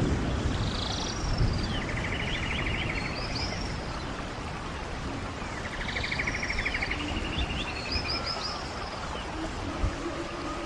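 Running stream with a songbird singing over it. The bird repeats the same phrase, a few high notes then a rapid trill, about every four to five seconds. A low thump comes at the start and another near the end.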